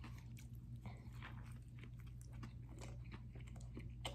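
A man chewing a mouthful of food close to the microphone: faint, irregular wet clicks and smacks.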